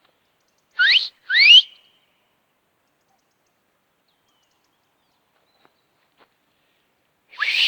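A man whistling to call his dog: two quick, loud whistles that each sweep upward, then a third rising call near the end.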